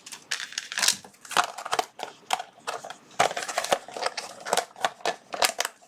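Plastic packaging being crinkled and handled: irregular crackling and sharp clicks, on and off throughout.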